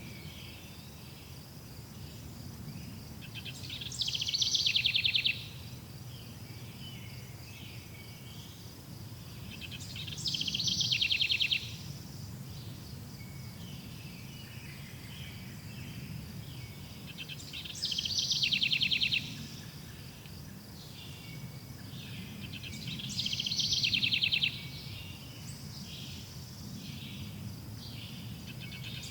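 A songbird repeating a short, loud trilled song four times, about every six seconds, over a steady high insect-like drone and faint low background noise.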